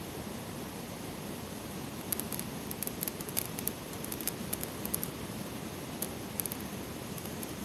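Steady rush of a mountain stream, with a scattering of small, sharp clicks and crackles starting about two seconds in.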